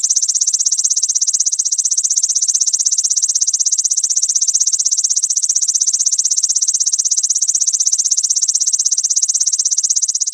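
Grasshopper song: a loud, high-pitched buzzing trill that runs without a break, pulsing rapidly at about seven or eight pulses a second.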